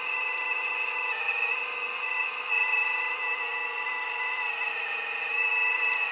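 Steady high machine whine with several pitches held together, dipping slightly in pitch now and then as the load changes.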